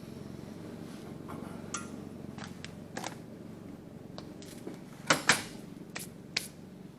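A few sharp metallic clinks and knocks over a steady low hum. There is one around two seconds in and one near three seconds, then a close pair about five seconds in that is the loudest, and two more shortly after.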